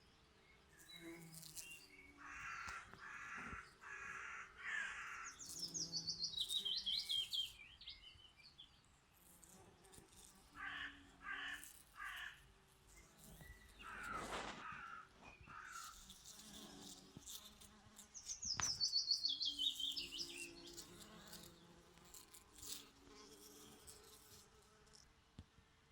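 Birdsong: a songbird sings a fast trill that falls in pitch, twice, about six and eighteen seconds in. Other birds call in short runs of repeated notes, and bees buzz faintly.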